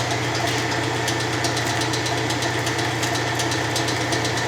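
1993 Kenmore 80 Series washing machine running dry on a spin cycle: a steady motor hum with a fast, continuous light ticking and rattling, which the owner puts down to debris probably caught in the drain pump.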